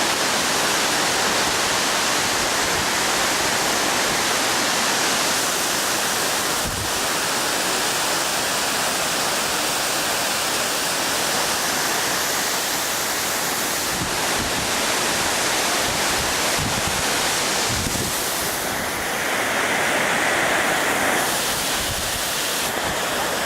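Steady rush of water falling at the Chegem waterfalls, with the tone shifting a few times. Low thumps of wind on the microphone come in now and then in the second half.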